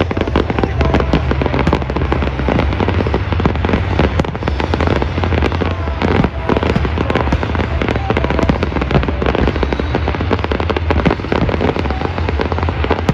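Large fireworks display: a dense, continuous barrage of bangs and crackles over a steady low rumble.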